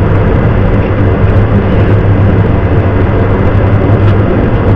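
Ford Crown Victoria police car's V8 engine running steadily, a constant low hum with even noise around it.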